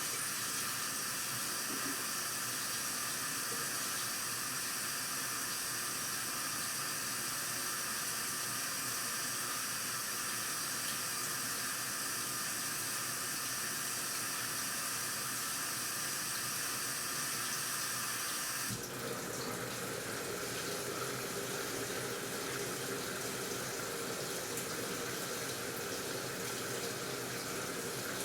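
AQUA washing machine filling with water, a steady hiss of water pouring into the tub. Its tone changes abruptly about two-thirds of the way through, turning less hissy and fuller.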